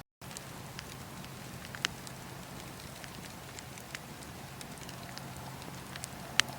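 Campfire burning: a steady hiss with scattered crackles, and two sharp pops, one about two seconds in and one near the end.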